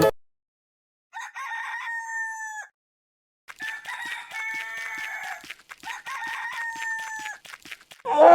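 Rooster crowing three times, each crow about a second and a half long with short pauses between.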